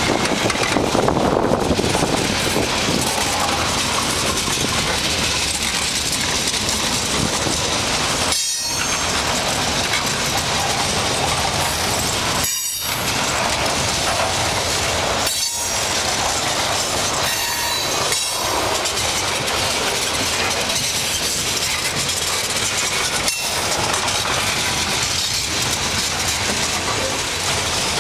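Freight cars of a long mixed freight train rolling past close by: steady noise of steel wheels running on the rails.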